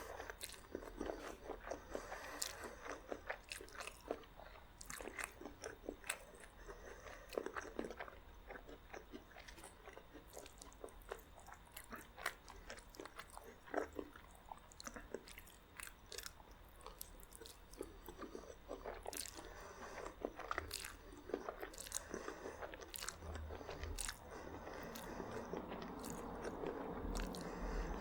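Close-miked eating: a person biting and chewing crunchy garlic bread, with many sharp crisp crunches over steady chewing. Near the end the chewing turns smoother and wetter.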